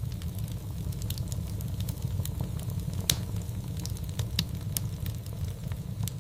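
Fireplace fire crackling, with frequent sharp pops over a steady low rumble; the loudest pop comes about three seconds in.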